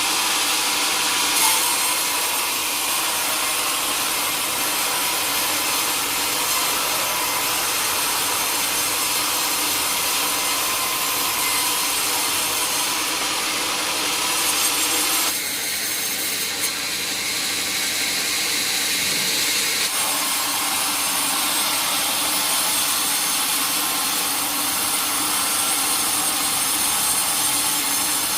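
Sawmill blade cutting steadily through a teak log: a continuous high, hissing saw noise whose tone shifts briefly about halfway through.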